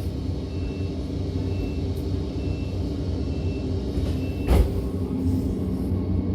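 Running noise of a DB class 425 electric multiple unit heard from on board: a steady low rumble and hum. There is a single sharp knock about four and a half seconds in, and a faint high beep repeats about once a second.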